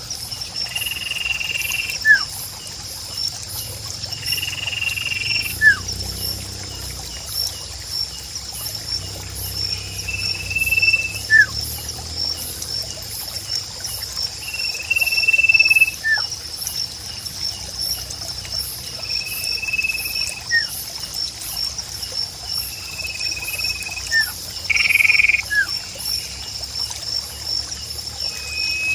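Nature ambience: a bird repeats a flat whistled note about a second long every four to five seconds, each followed by a short sliding chirp. Under it run a steady, fast-pulsing chorus of frogs and insects and trickling water.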